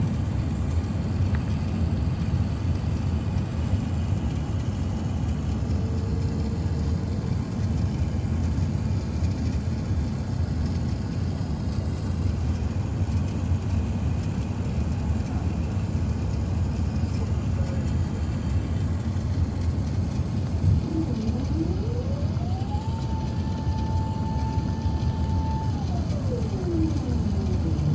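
Steady low rumble of airliner cabin noise, heard from a rear seat of an Airbus A380 on its approach to land. Late on, a whine climbs in pitch, holds steady for a few seconds, then slides back down.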